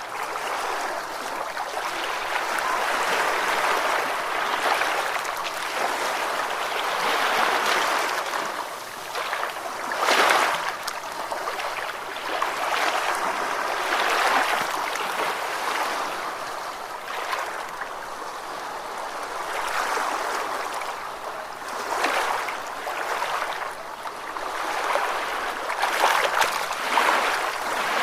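Ocean waves washing in and drawing back: a continuous rush of water that swells and fades every few seconds, with a louder splash about ten seconds in and again near the end.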